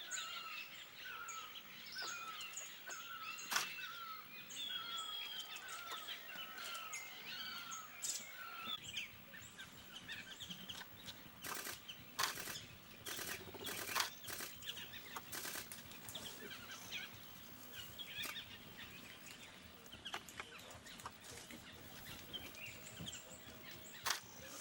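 Wild forest birds calling, with one bird repeating a short chirp about two times a second for the first third, over other higher calls. After that come scattered sharp clicks and knocks among fainter calls.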